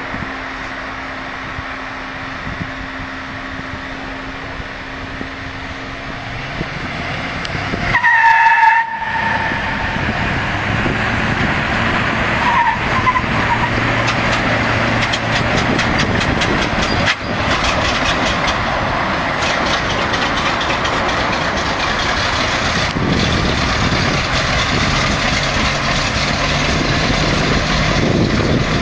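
Vehicle engines running as a car tows an old military truck. There is a brief loud high tone about eight seconds in, and a fast regular ticking through the second half.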